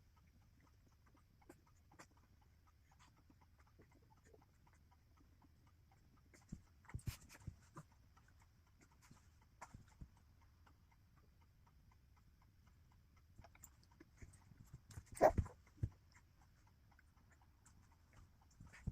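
Scattered light taps and knocks of small handling noises, with a cluster about seven seconds in and a louder knock about fifteen seconds in, over a faint low hum.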